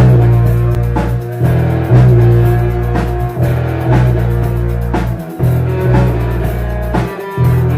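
Rock band playing live with guitar, bass and drum kit, in an instrumental passage. A heavy low bass note holds and breaks off, with a loud accent about every two seconds.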